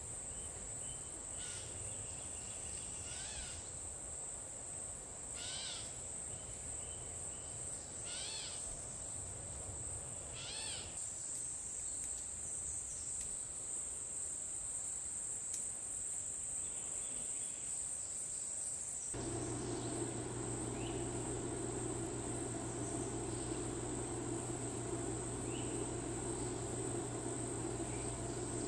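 Insect chorus, a steady high-pitched trill of crickets, with a short chirping call repeating every two to three seconds in the first part. About two-thirds of the way in, a steady low hum joins under the insects.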